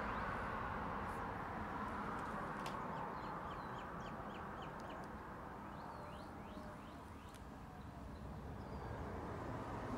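Faint steady outdoor background noise with a bird calling: a quick run of about eight short chirps from about three seconds in, then a few more around six to seven seconds.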